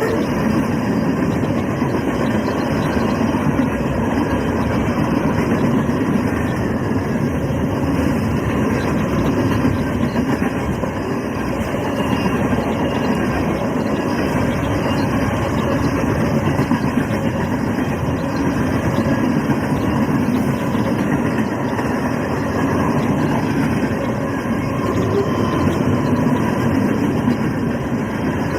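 Freight train rolling past at speed: a steady rumble and clatter of car wheels on the rails.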